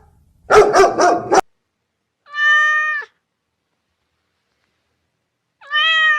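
A dog barks in a short rough burst near the start. Then a domestic cat meows twice, each meow a clear, even-pitched cry of under a second, a few seconds apart.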